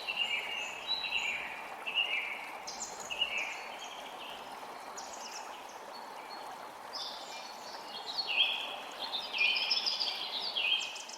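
Creek water running steadily, with songbirds chirping over it in many short repeated notes, busiest in the second half.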